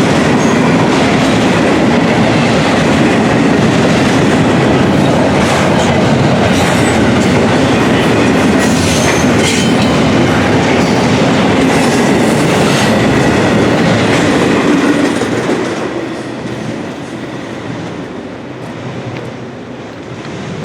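Intermodal container freight cars rolling past at speed, steel wheels clattering over the rail joints in a loud, steady rumble. About three-quarters of the way through the sound falls away quickly and stays quieter.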